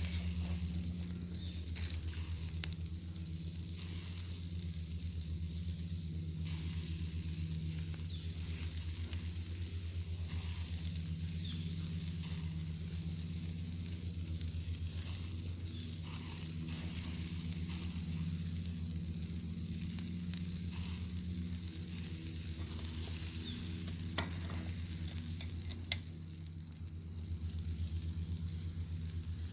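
Bacon sizzling and spitting in a pan over a crackling fire: a steady high hiss scattered with small pops, a few sharper pops standing out, and a steady low rumble underneath.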